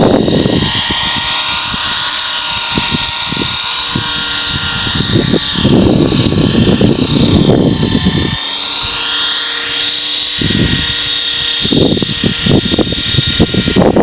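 Blue Ray 450 radio-controlled helicopter flying, its rotor and motor giving a steady high whine that wavers slightly in pitch. Gusts of wind buffet the microphone in loud low rumbles several times.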